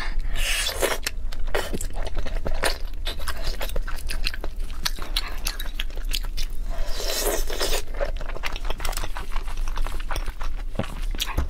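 Close-miked eating of raw salmon slices in spicy sweet-and-sour sauce: wet chewing and smacking with many sharp clicks, with two louder wet stretches near the start and about seven seconds in. A steady low hum sits underneath.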